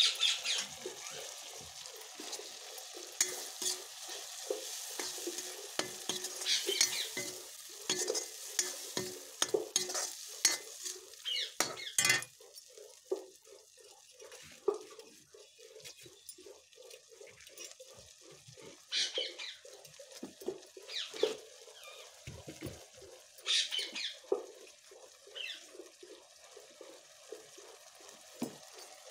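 Food sizzling and bubbling in a kadhai over an open wood fire, under a steady hiss, with frequent sharp pops and crackles that are busiest in the first dozen seconds.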